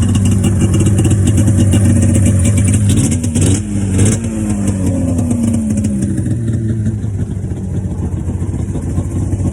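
Cold small vehicle engine idling, blipped twice a few seconds in and then sliding slowly back down to idle.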